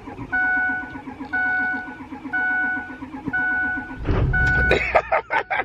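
Ford F-350 Super Duty's cab warning chime dinging about once a second, then about four seconds in the diesel engine cranks and catches with a low rumble.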